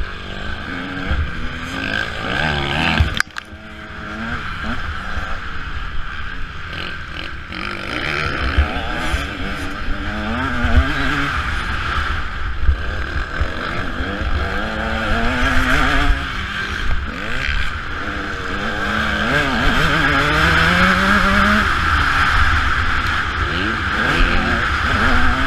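Motocross dirt bike engine revving up and dropping back again and again, its pitch climbing and falling every second or two as the throttle is worked through the gears. The sound drops off sharply for a moment about three seconds in.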